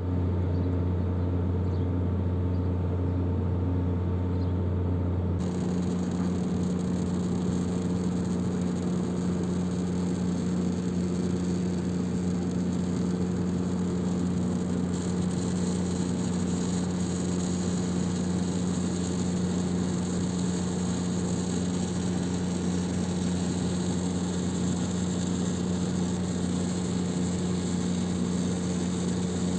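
Equipment energised at a 515 kV test voltage, giving a steady electrical hum under a hissing corona discharge. About five seconds in, the hum shifts up in pitch and the hiss grows louder.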